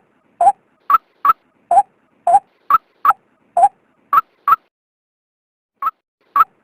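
Female white-breasted waterhen calling: a run of short, sharp notes, about two to three a second, alternating between a higher and a lower pitch, with a pause of over a second near the end before two more notes.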